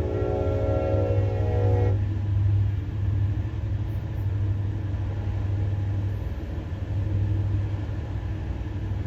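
Diesel locomotive horn sounding a held chord of several tones that cuts off suddenly about two seconds in, over a steady low road and engine drone inside a truck cab.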